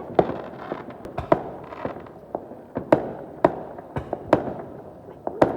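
Fireworks going off: about a dozen sharp bangs at irregular intervals, roughly one every half second, each with a brief echoing tail.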